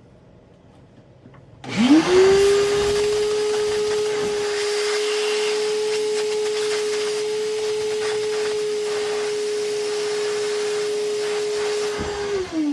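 Electric drill boring a hole down into the boat's wooden structure beside a bronze sleeve: the motor spins up about two seconds in, runs at one steady high whine, and winds down in falling pitch near the end.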